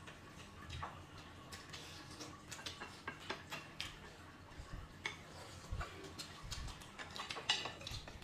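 Faint, irregular clicks and light taps of eating: utensils tapping dishes at a meal.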